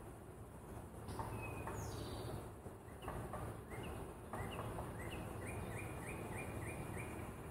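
A small songbird chirping: a few scattered short chirps, then a quick run of repeated rising notes, about three a second, in the second half. A low steady hum runs beneath.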